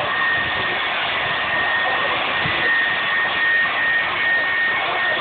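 Boeing 757 jet engines at takeoff power: a loud, steady roar with a high, steady whine running through it.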